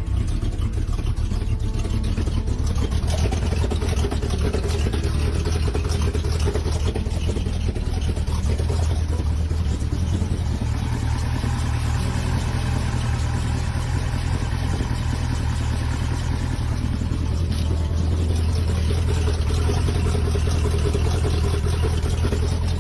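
Chevrolet 454 big-block V8 in a 1986 Silverado pickup, mildly built with a larger cam, running steadily with a strong low rumble.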